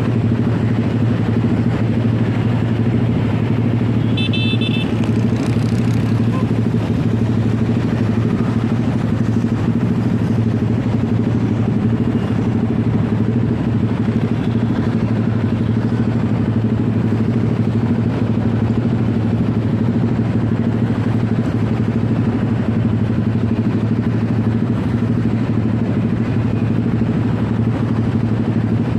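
Motorcycle running steadily while being ridden, a constant low hum over road noise, with a short high-pitched beep about four seconds in.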